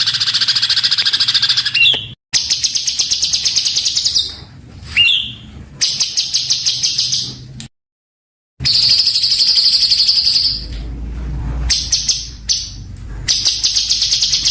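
Songbird singing rapid-fire, harsh repeated notes, about a dozen a second, in runs of about two seconds. This is the dense, coarse 'tembakan' song used as a master recording for training cage birds. The song cuts out abruptly for about a second midway.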